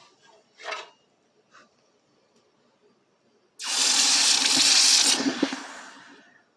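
Hot freshly cast aluminum ingot plunged into water: a sudden loud hiss of boiling and steam that holds for about a second and a half, then fades away.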